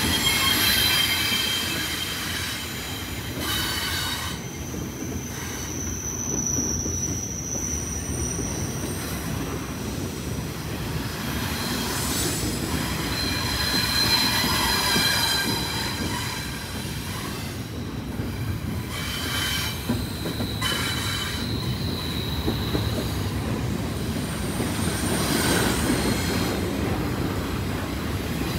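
Freight train cars rolling past with a steady low rumble, and high-pitched steel wheel squeal that comes and goes at several pitches.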